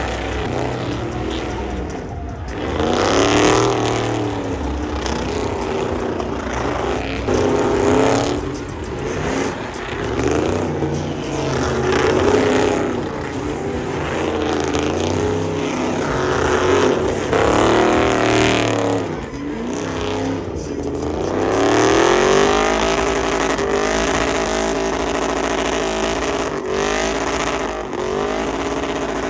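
Pickup truck engine revving hard in repeated surges during a burnout, its pitch climbing and dropping again and again, then held high near the end.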